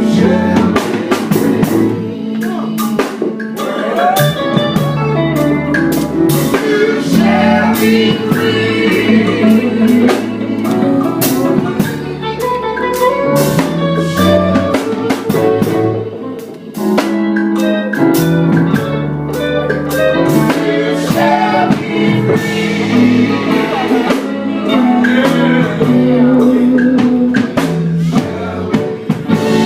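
Live gospel music: a band with drum kit and electric guitar playing, with singing over it.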